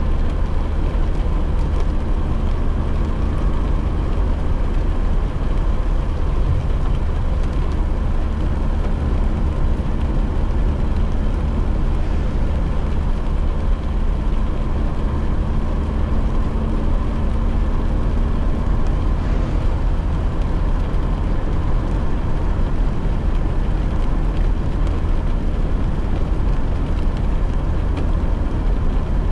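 Car interior noise while driving in rain: a steady low rumble of the engine and the tyres on a wet road. A faint steady hum underneath drops out about two-thirds of the way through.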